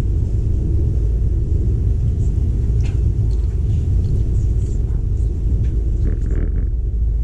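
Steady low rumble of a moving passenger train, heard from inside the carriage: wheels running on the track, with no change in pace.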